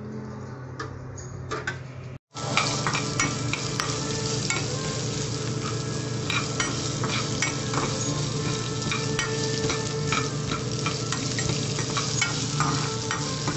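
Ginger pieces and dal frying in hot oil in a metal kadai, sizzling steadily, with a spatula scraping and clicking against the pan as they are stirred. Before this, for about two seconds, a quieter steady sound with a few light clinks, which cuts out briefly before the sizzling starts.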